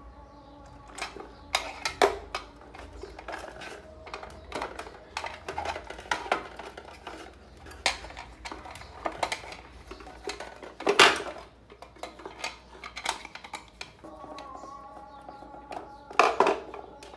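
Irregular clinking, clicking and clattering of small hard objects being handled and set down, with a sharper knock about eleven seconds in.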